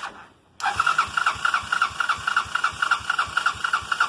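Electric starter cranking the cold Honda 200cc buggy engine in an attempt to start it, a steady rhythmic chug of about four compression strokes a second that begins about half a second in. The engine turns over but does not catch on this cold start.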